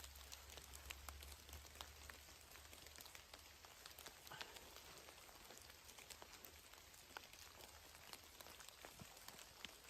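Faint patter of scattered drops, like rain or melting snow dripping, over a soft steady hiss.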